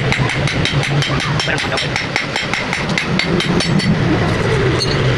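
Hammer blows on metal in a quick, even succession, over a steady engine-like hum.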